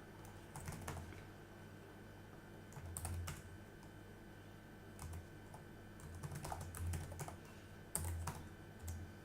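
Computer keyboard typing in short, scattered bursts of keystrokes, with pauses between them.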